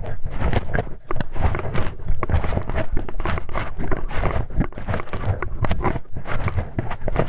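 Close-miked ASMR ear-cleaning sounds on an ear microphone: continuous scraping and rubbing dense with small clicks and taps.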